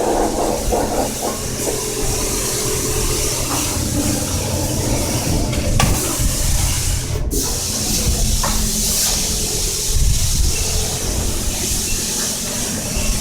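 High-pressure wand at a coin-operated self-serve car wash spraying water over a car: a steady hiss of spray with a low hum underneath.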